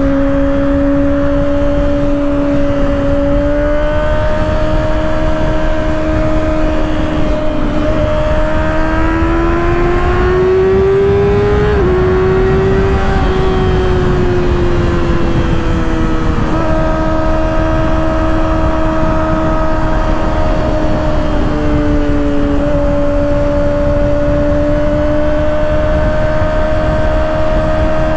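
A 2024 Kawasaki ZX-6R's inline-four running through an M4 aftermarket exhaust with its baffle still in, under way on the road. The engine note climbs steadily for several seconds, drops suddenly at a gear change about twelve seconds in, then holds fairly steady with a couple more small shifts in pitch, over a constant rush of wind.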